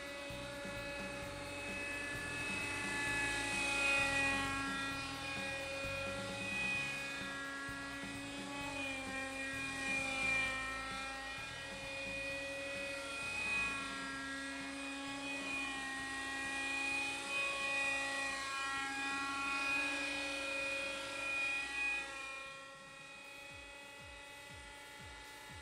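Kyosho Nexus nitro RC helicopter in flight: its glow engine and rotor run with a steady buzzing pitch that rises and falls as the helicopter is flown. The sound drops away sharply near the end.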